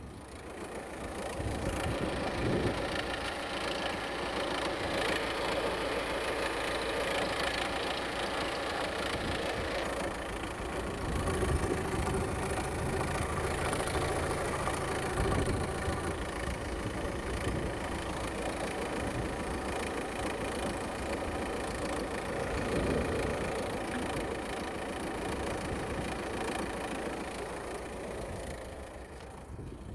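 VW Touran 1.9 TDI Pumpe-Düse four-cylinder diesel engine running at idle on an engine test, with a steady diesel clatter that swells slightly now and then and fades near the end.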